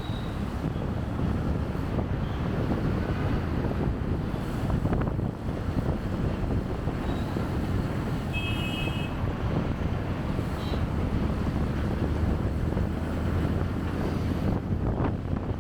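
Wind buffeting a chest-mounted camera's microphone over the steady rumble of a motorcycle riding in city traffic, with a short high beep a little past halfway.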